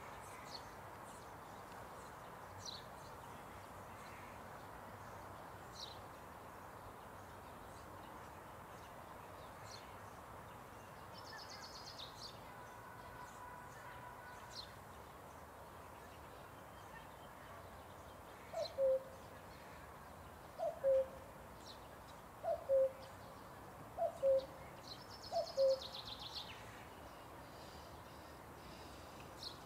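Birds calling in a park. In the second half one bird gives a low two-note call, the second note lower than the first, five times about every one and a half to two seconds. Faint high chirps from other birds sound over a steady background hiss.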